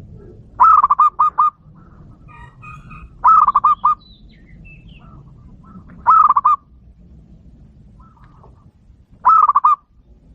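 A dove calling: four short bursts of rapid, repeated cooing notes, about three seconds apart. Faint higher chirps come between the bursts.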